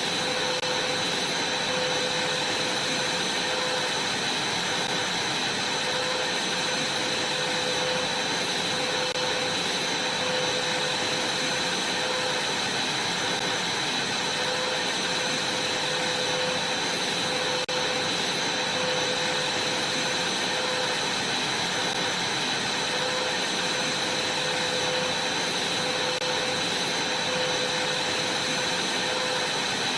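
Vacuum cleaner running steadily while vacuuming a trampoline: an even rush of air with a constant high whine and a lower hum.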